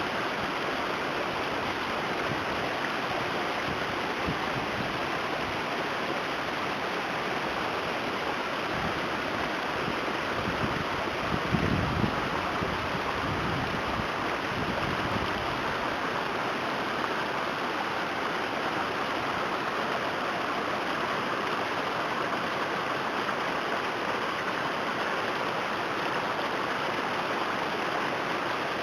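Floodwater rushing steadily in a torrent off saturated ground, a continuous even rush. A brief louder low rumble comes about twelve seconds in.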